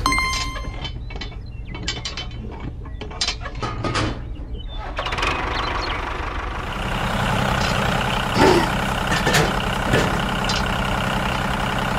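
Mechanical clicking and ratcheting for the first few seconds. About five seconds in, a steady machine running sound starts, with scattered clicks and knocks over it; the loudest knock comes about eight and a half seconds in.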